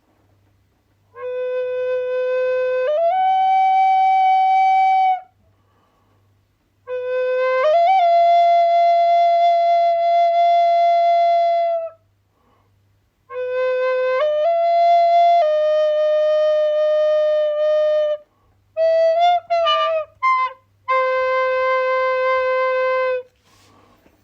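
Flute playing slow phrases of long held notes with short pauses between them, the pitch stepping up and down between a few notes. A quick run of short notes comes about three quarters of the way through before a last held note.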